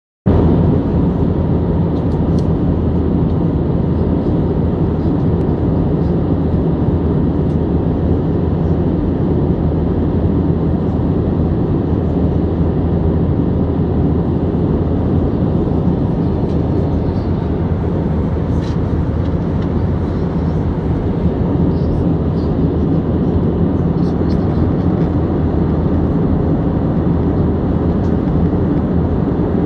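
Steady roar of an airliner cabin in flight: engine and airflow noise heard from inside the cabin, deep and even throughout, with a few faint clicks here and there.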